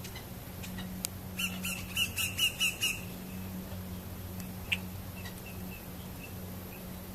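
Red-winged blackbird calling: a quick run of about eight short repeated notes over about a second and a half, then a single sharp call and a few faint short notes.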